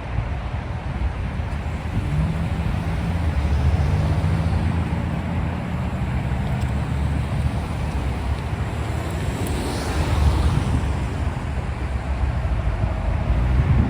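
Freight train rolling past at close range, a steady low rumble of wheels on rail, with wind on the microphone.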